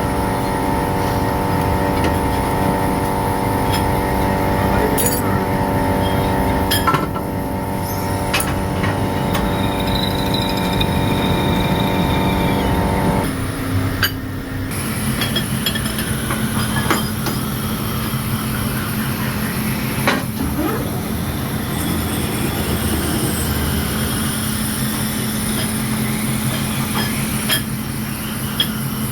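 Workshop machinery running with a steady, many-toned hum that cuts off about thirteen seconds in. A lower machine hum takes over, with scattered metallic clinks and clicks of metal parts being handled.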